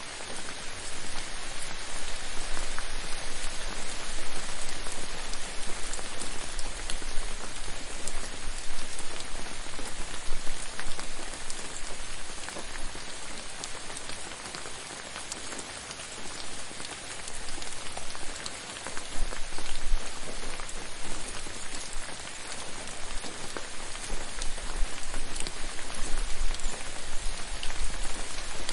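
Steady rain falling on a surface, a dense hiss of many drops with scattered sharper drop ticks, its loudness swelling and easing. A low rumble comes and goes underneath in places.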